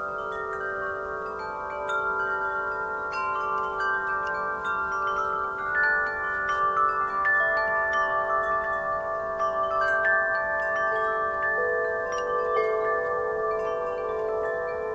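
Wind chimes ringing continuously in a breeze, their tubes struck often and at random so many overlapping tones sustain and blend.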